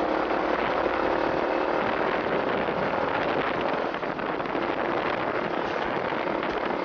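Honda Cub motorcycle's small single-cylinder engine running under way, mixed with a steady rush of wind and road noise; its humming note fades about halfway through.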